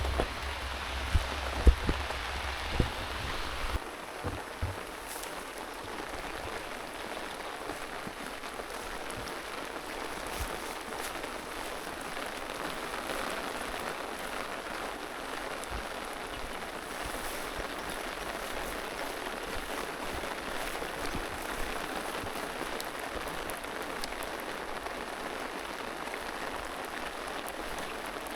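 Steady rain falling, an even hiss. In the first few seconds a low hum and a few sharp knocks sound over it, then stop about four seconds in.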